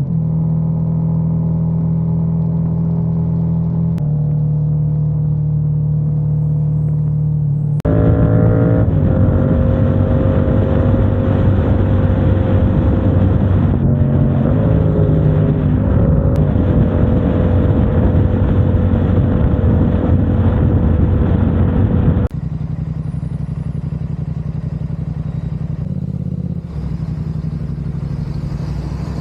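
Motorcycle engine running under way with a steady engine tone. About a third of the way in it abruptly gets louder, with more road and wind noise and the engine pitch stepping up and down a few times, then drops back to the quieter steady tone some two thirds of the way in.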